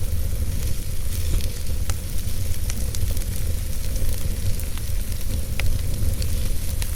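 Wood fire burning in a fireplace: a steady low rumble and hiss of the flames with a few scattered sharp crackles as the logs pop.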